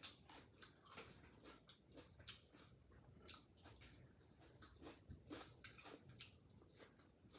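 A person chewing steamed chicken close to the microphone: soft, wet mouth clicks and smacks, about three a second.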